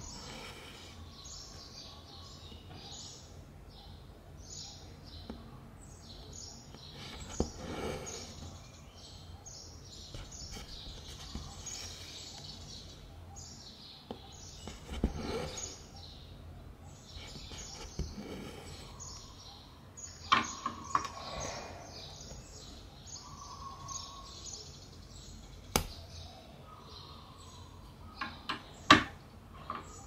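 Small birds chirping on and off over steady background noise, with a few soft rustles and several sharp clicks in the second half, the loudest near the end.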